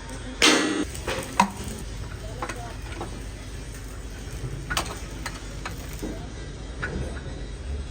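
Workshop clatter of metal tools and gearbox parts: a loud scrape about half a second in, a sharp clink a second later, then scattered lighter knocks and clicks over a steady background hiss.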